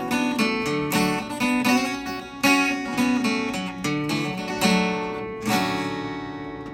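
Acoustic guitar playing the closing bars of a folk song, picked and strummed notes ending on a final chord about five and a half seconds in that rings out and fades away.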